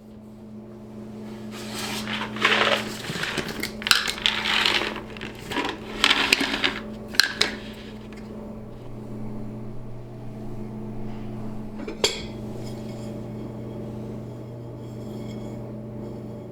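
Raw peanuts poured and shaken onto a thick ceramic plate, rattling and clicking in several bursts over a few seconds, with one sharp click later. A steady low hum runs underneath.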